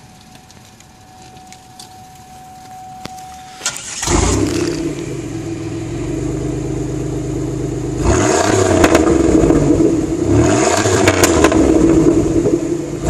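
A car's V6 engine starting with its exhaust note about four seconds in after a faint steady tone, settling into an idle, then revved twice, around eight and ten seconds in.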